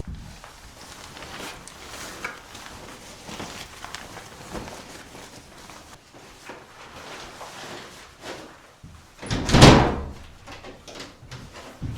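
Scattered light knocks and clicks, then one loud, heavy thump about nine and a half seconds in.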